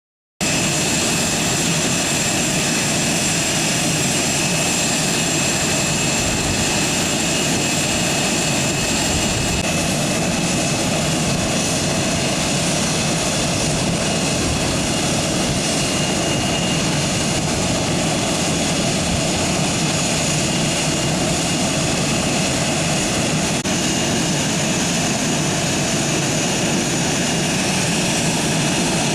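Aircraft turbine engines running at a steady, loud level, a constant roar with a high whine that neither rises nor falls.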